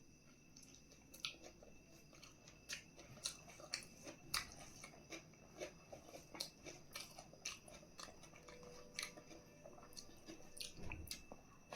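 A person chewing food close to the microphone: faint, irregular wet mouth clicks and bites, several a second.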